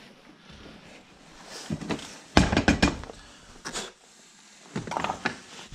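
Clicks and knocks of air filter parts being handled and fitted back onto a concrete saw, in several short clusters with pauses between.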